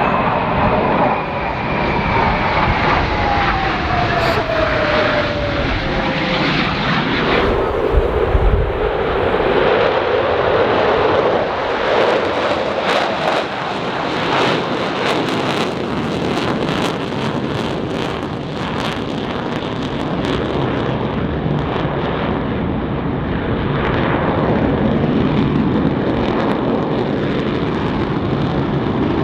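Blue Angels F/A-18 Super Hornet jet flying past: its whine falls in pitch over the first several seconds, then gives way to a loud, steady jet roar with a crackling rasp through the middle.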